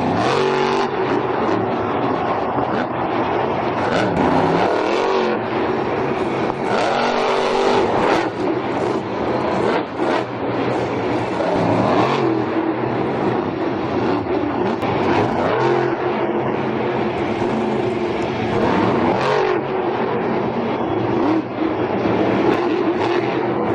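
Monster truck's supercharged V8 engine revving hard, its pitch climbing and falling again and again as the throttle is worked.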